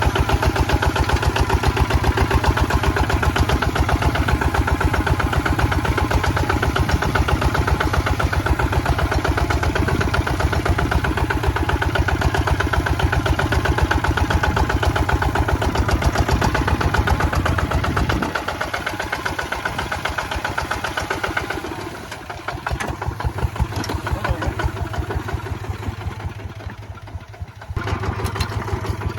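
Kubota ZT155 walking tractor's single-cylinder diesel engine running with a steady, fast chug. About two-thirds of the way through its low pounding drops away and it runs quieter, then the heavy chug returns near the end.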